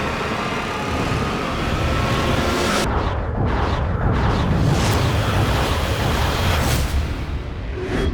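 Film-trailer disaster sound mix: heavy continuous rumbling with booms and explosions under music, with a run of sweeping whooshes about three to five seconds in.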